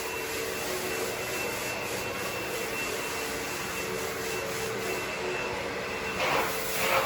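Carpet-cleaning machine's motor running with a steady whine, with two louder swooshes near the end.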